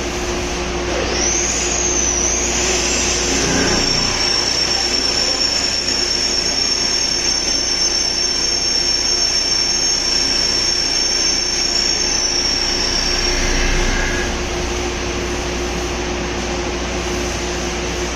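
CNC vertical machining centre's spindle spinning up to a steady high-pitched whine, running for about eleven seconds, then winding down, over a steady machine hum.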